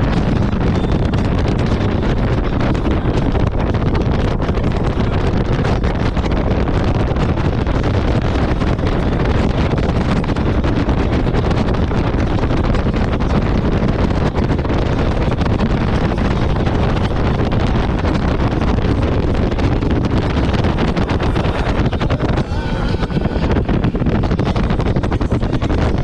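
Heavy wind buffeting on the microphone over the running drone of a jet ski at speed on the water.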